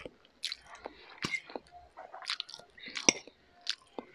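Close-miked chewing of instant stir-fried noodles: irregular wet smacks and clicks of the mouth as the mouthful is chewed.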